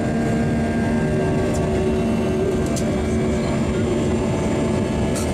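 Airbus A320 jet engines heard from inside the passenger cabin during takeoff: a steady, loud rush of noise with a few steady humming tones underneath.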